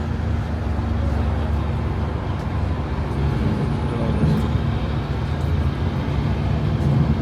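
A car engine idling steadily with a low rumble, under the general background noise of an outdoor crowd.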